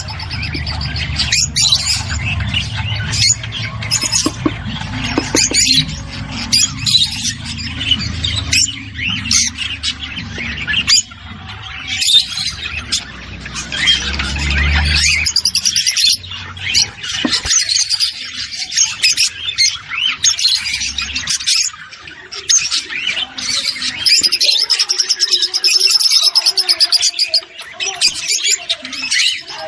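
A flock of rosy-faced lovebirds chirping and squawking continuously, many shrill, rapid calls overlapping. These are the calls played to stimulate the birds to breed.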